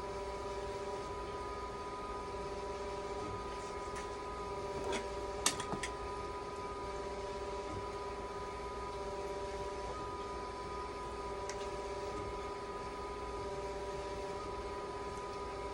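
Hemodialysis machine running in dialysis mode during a test, a steady mechanical hum holding several fixed tones, with a short cluster of sharp clicks about five seconds in.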